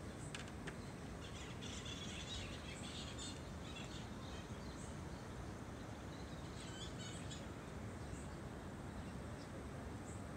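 Small birds chirping now and then over a steady low outdoor background noise.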